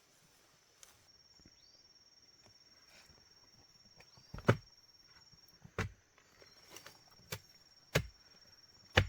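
A steady high-pitched insect trill, such as a cricket's, with five sharp knocks in the second half, spaced about a second apart.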